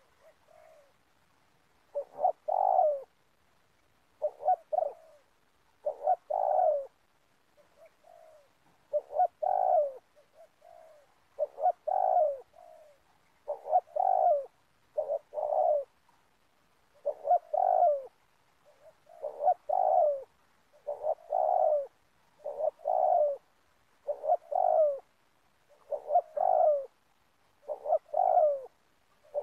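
Spotted dove cooing over and over, in short groups of coos about every second or two.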